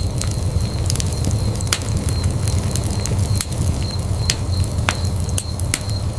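Wood fire burning in a fireplace: a steady low rumble of flames with irregular sharp crackles and pops several times a second.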